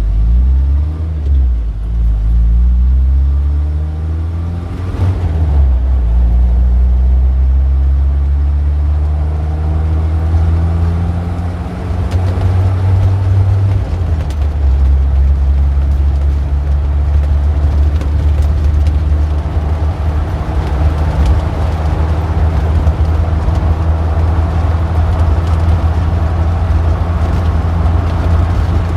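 Street traffic: car engines running, their pitch rising and falling as vehicles pull away and pass in the first several seconds, then a steady deep engine rumble under road noise.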